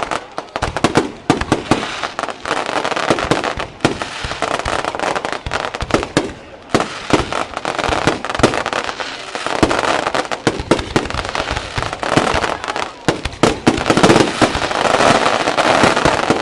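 Fireworks display: a rapid, continuous barrage of loud bangs and shell bursts, with crackling filling the gaps between reports.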